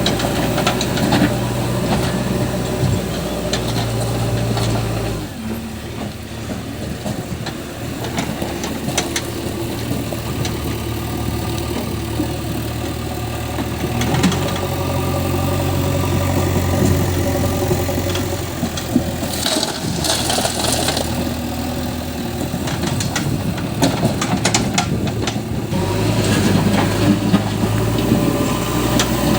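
Heavy diesel engine running steadily. Its note and load shift several times: the deep low end drops away about five seconds in and comes back near the end.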